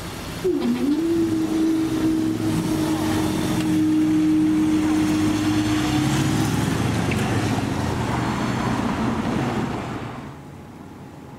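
Train passing the level crossing close by: a sudden rush of noise with a steady whine running through it, which fades out about ten seconds in.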